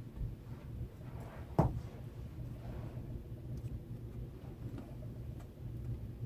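Small handling noises: one sharp knock about one and a half seconds in, then a few faint ticks, over a steady low hum.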